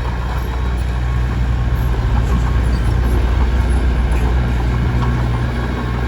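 Komatsu D21P crawler bulldozer's diesel engine running steadily under work, a constant low drone with rough mechanical noise over it.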